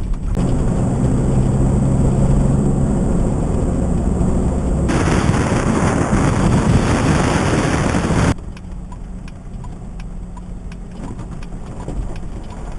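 A 4x4 vehicle driving on a dirt road: steady engine hum with rumbling road noise. A louder rushing noise sets in about five seconds in, and a little past eight seconds it cuts off abruptly to a quieter rumble with scattered light ticks.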